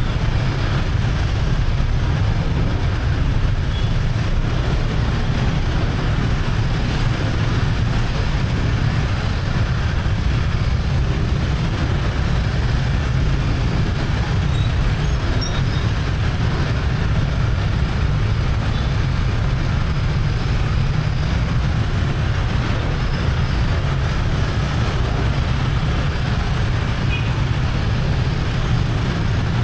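Steady traffic noise heard from a riding motorbike: a heavy low rumble with the engines and tyres of surrounding vehicles, unbroken throughout.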